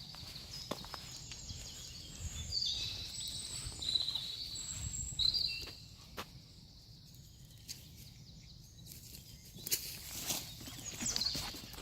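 Songbirds singing, with high twittering phrases through the first half and again near the end, over scattered rustles and knocks.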